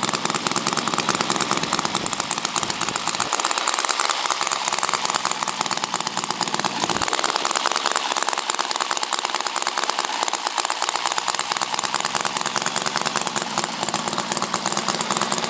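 Homemade model radial engine running steadily at speed, a fast even rattle of firing strokes. The builder thinks its ignition timing is not yet quite right.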